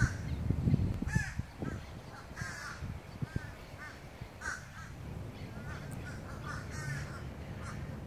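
Birds calling repeatedly, many short calls that rise and fall in pitch, scattered through the whole stretch. A low rumble on the microphone stands out in the first second.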